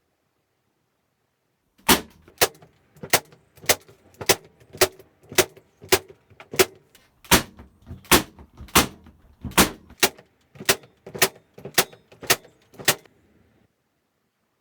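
Hammer striking, about nineteen sharp blows at a steady pace of nearly two a second, typical of nails being driven into pallet wood.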